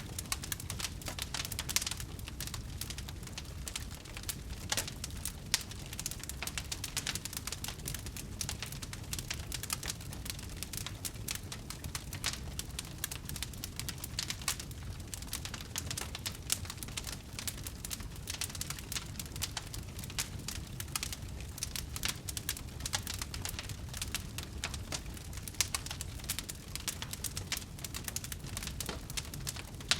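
Wood fire burning, with many sharp, irregular pops and crackles over a steady low rumble of flame.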